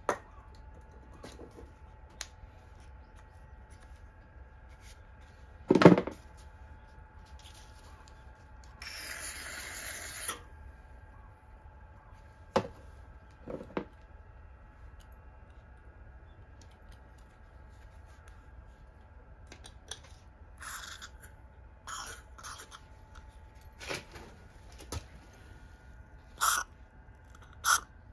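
Hand-tool work on small metal parts: scattered clicks, light knocks and scraping, with one louder knock about six seconds in and a short hiss a few seconds later.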